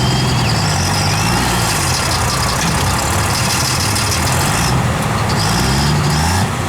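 Truck engine running loud and steady, its pitch wavering and climbing in the last second.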